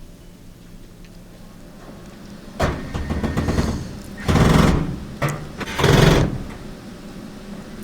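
Three bursts of scraping and rattling from the dryer's sheet-metal front panel as it is worked onto its clips against the cabinet, the first one longer and the last two sharper and louder.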